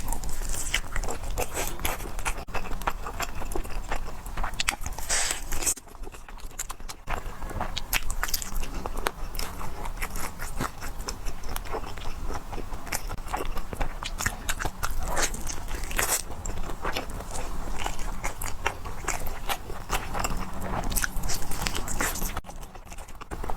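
A person biting and chewing food with many sharp, crunchy mouth clicks and smacks, easing off briefly twice.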